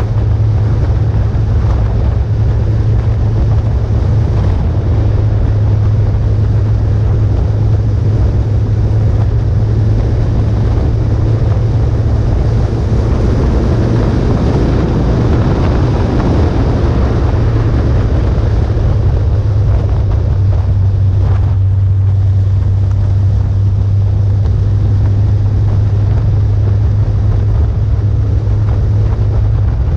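Motorcycle riding at a steady speed: its engine is a constant low drone, with heavy wind noise buffeting the microphone.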